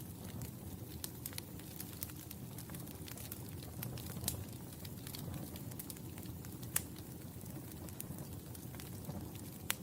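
Wood fire in a fireplace crackling: a steady low rumble of flames with scattered sharp pops and snaps, the loudest at about four and seven seconds in and one near the end.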